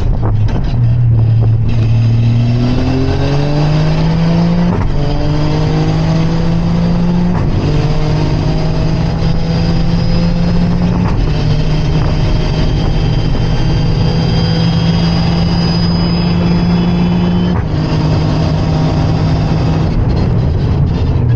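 Toyota hatchback's engine heard from inside the cabin on a track lap. It climbs in revs under hard acceleration, with short breaks at the gear changes, then holds steady high revs and drops as the throttle is eased near the end.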